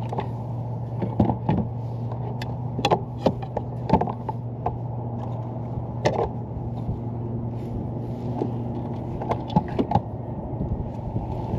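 Fish-handling noises on a kayak: scattered sharp clicks and knocks over a steady low hum.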